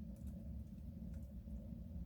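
Wood fire burning in a soapstone stove, a few faint crackles over a steady low hum.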